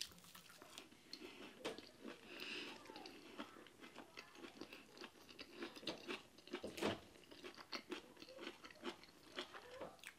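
A person chewing a mouthful of injera with vegetable stews, with faint mouth clicks and smacks throughout. A single louder thump comes about seven seconds in.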